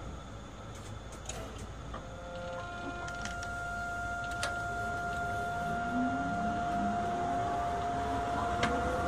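Astram Line 6000-series rubber-tyred automated guideway train pulling away. A steady electronic whine from the traction equipment sets in about two seconds in. From about six seconds, motor tones rise in pitch as the train accelerates, over a low running rumble.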